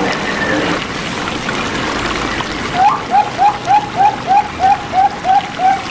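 Zebra dove (perkutut) cooing: a quick run of about a dozen short, rising coo notes, about four a second, starting about three seconds in. Under it runs a steady sound of flowing water.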